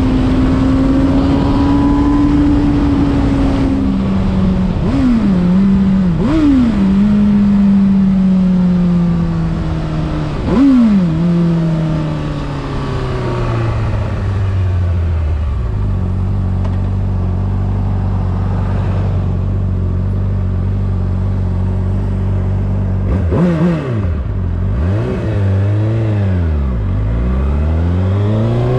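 Honda CBR600RR inline-four engine and exhaust under riding. Steady revs are broken by several quick throttle blips, then the engine speed falls away to a low, steady run. Near the end it revs up and down sharply several times, and it climbs again as it accelerates.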